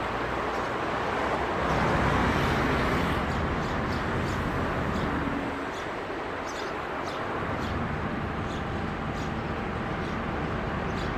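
Outdoor street ambience: steady noise of road traffic passing, swelling a little about two seconds in, with faint short high ticks scattered through it.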